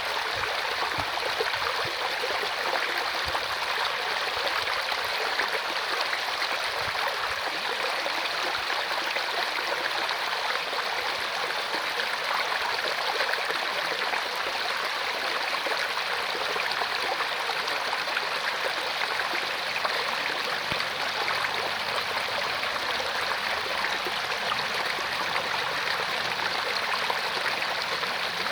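Mountain stream flowing over rocks: a steady rushing and gurgling of water.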